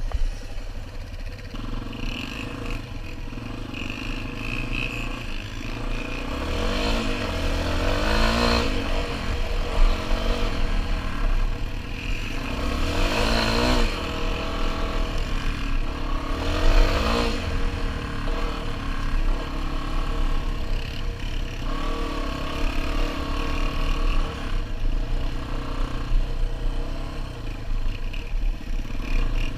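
Dual-sport motorcycle engine running under way, rising in pitch three times as the rider accelerates hard.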